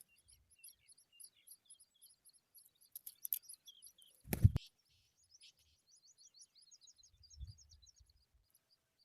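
Small birds chirping in quick, high-pitched trains of short notes. A single loud thump comes about four and a half seconds in, with a faint low rumble near the end.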